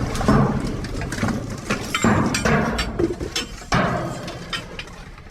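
Irregular knocks, clatter and rustling of scrap and junk being shifted and handled in a dumpster.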